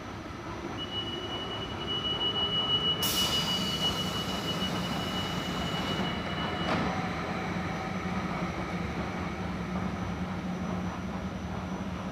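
SBB double-deck commuter train standing at the platform: a steady hum, a steady high tone for several seconds, and a loud hiss about three seconds in that fades away. A single sharp knock near seven seconds in.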